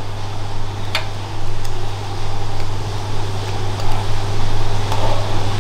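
Steady low electrical hum under an even fan-like whoosh, with one light tap about a second in.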